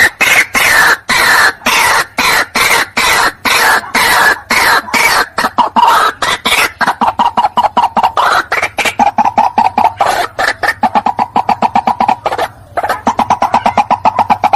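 White-breasted waterhen calling: a long, loud run of harsh repeated notes, several a second, with a brief break about twelve and a half seconds in.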